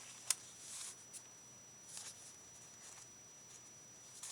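Faint handling of paper craft pieces on a desk: a few soft rustles and one sharp click about a third of a second in.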